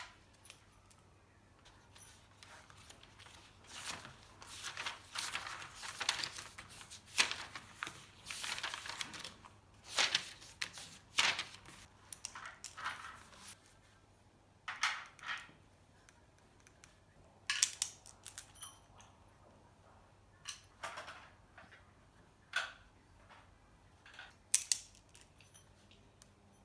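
Kitchen handling noises: rustling and scraping for several seconds, then scattered light clicks and knocks of things being picked up and set down.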